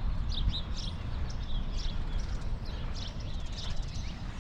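Several birds chirping in short, quick calls throughout, over a steady low rumble.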